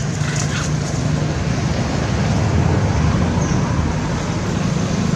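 Steady low rumble of road traffic, with one faint short high chirp about three and a half seconds in.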